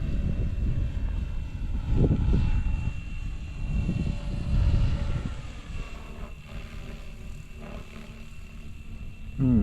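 Electric RC helicopter flying in gusty wind: a steady high whine from its motor and rotor, under heavy wind rumble on the microphone that swells in gusts. A sudden loud low sound with a falling pitch comes near the end.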